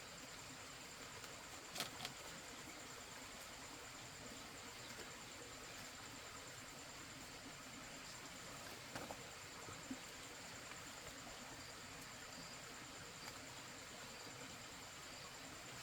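Faint, steady high-pitched trilling of insects over a quiet hiss, with a few soft clicks about two seconds in and again around nine to ten seconds in.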